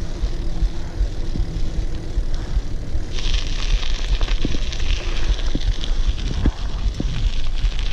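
Wind buffeting the microphone while riding, a steady low rumble, with a hiss from the tyres joining about three seconds in and a few scattered knocks.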